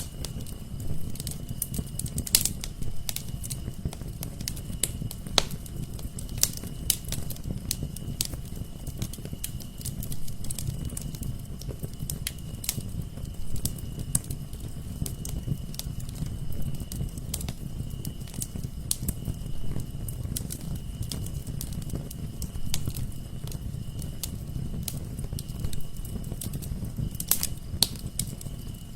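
Wood fire crackling in a fireplace: irregular sharp pops and snaps over a low steady rumble of the flames, with a couple of louder pops, one a few seconds in and one near the end.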